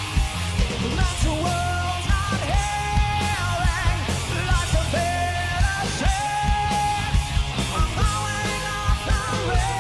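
Live hard rock band playing a heavy-metal song: a male lead singer belts long held notes over distorted electric guitars, bass and a steady drum beat.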